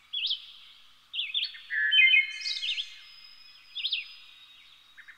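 Songbirds chirping: short sweeping calls in separate bursts, with a cluster of clear whistled notes about two seconds in being the loudest.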